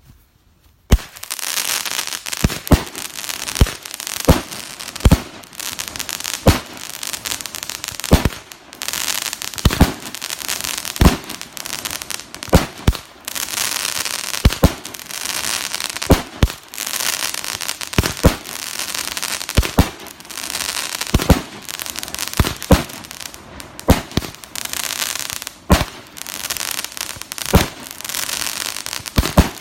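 A Live Wire firework cake firing: a steady high hiss with sharp loud bangs every second or so, starting about a second in.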